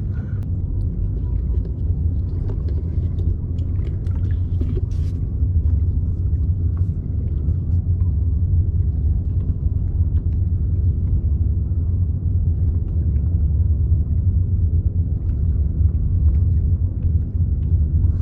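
A low, steady rumble with a faint hum running through it.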